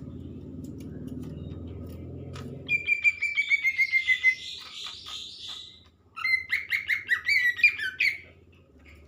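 Green leafbird (cucak ijo) singing two loud phrases of rapid whistled notes, the first sliding slowly down in pitch, the second a quick jumping warble. A low hum fills the first three seconds, before the song starts.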